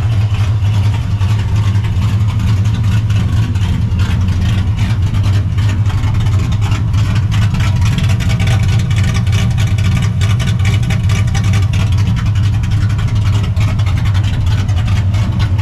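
Straight-piped, Procharger-supercharged 5.4-litre V8 of a 1999 Mustang GT running steadily and loud, with no revving.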